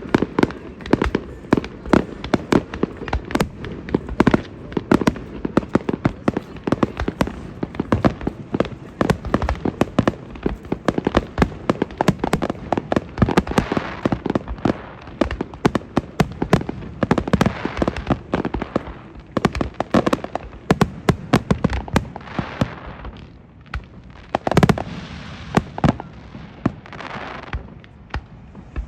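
Fireworks display: a rapid, continuous barrage of bangs and pops, with stretches of crackling and a few louder booms, one of the loudest about twenty-five seconds in.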